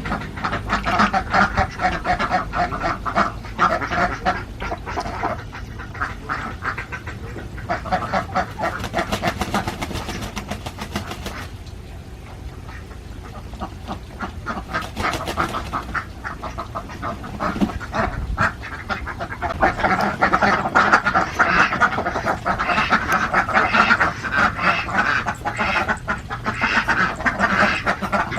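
A flock of Alabio ducks quacking, many at once in a dense, continuous chorus that eases off about halfway through and grows louder again toward the end.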